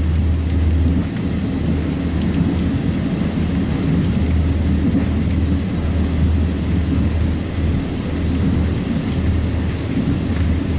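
Steady low rumble of a passenger train running at speed, heard inside the coach: wheels and running gear on the rails, with a few faint clicks.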